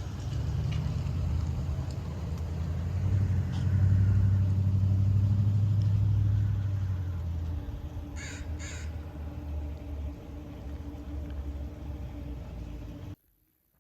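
A low steady rumble that swells about three seconds in and fades after about seven seconds. Two short harsh calls come close together about eight seconds in, and the sound cuts off just before the end.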